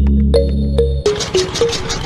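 Background music, then about a second in a small machine starts up and runs with a rapid, even clatter while the music goes on.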